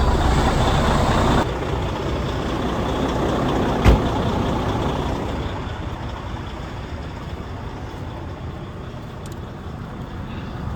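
Semi truck's diesel engine running just after starting on its freshly charged batteries. The sound drops suddenly about a second and a half in, and a single sharp knock comes about four seconds in.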